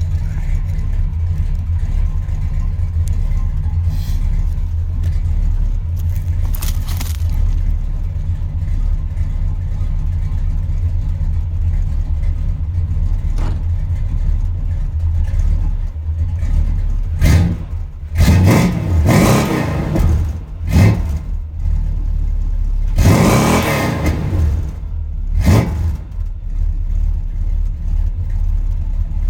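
1972 Chrysler New Yorker's 440 V8 idling after a cold start through a dual exhaust with an H-pipe and Flowmaster 40-style mufflers. In the second half the throttle is blipped about five times in quick succession, each rev rising and dropping straight back to idle.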